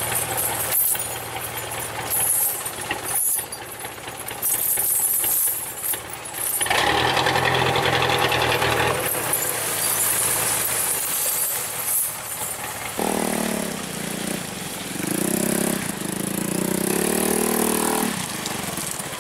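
Vehicle engine running steadily, with a louder noisy surge about seven seconds in. Near the end the engine is revved several times, its pitch climbing with each rev.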